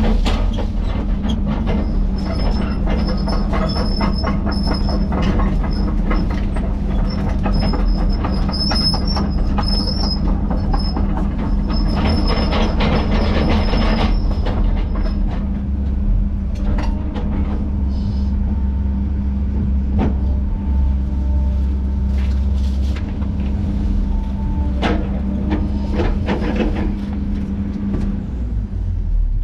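Diesel engine of a tracked heavy machine running steadily, with clanking and high squealing from its steel tracks and parts through the first half. The clanking thins to occasional knocks later on.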